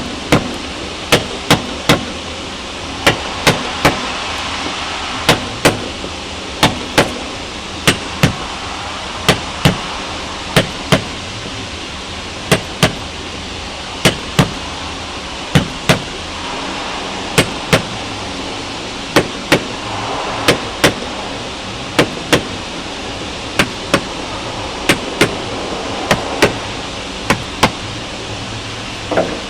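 Mallet pounding a caulking making iron, driving cotton into a wooden boat's plank seam: sharp strikes, often in quick pairs, about a second apart.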